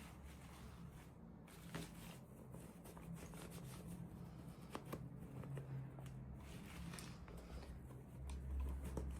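Faint rustling and small clicks of toy packaging being handled and opened, over a steady low hum that grows louder near the end.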